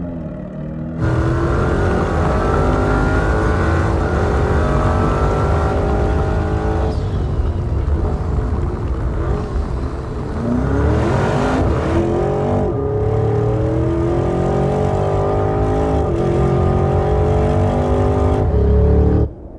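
Porsche Cayenne Turbo GT's 4.0-litre twin-turbo V8 pulling hard under acceleration, its pitch climbing in long runs with steps at the gear changes. There is a quick rev sweep upward about ten seconds in. It starts loud about a second in and cuts off abruptly near the end.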